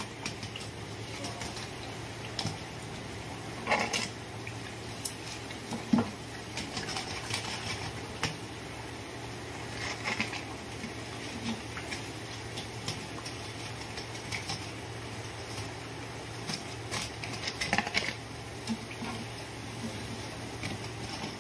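Potato tikkis frying in hot oil in a shallow pan, a steady sizzle, with a wire spider strainer clinking against the pan a few times as the fried pieces are lifted out onto a plate.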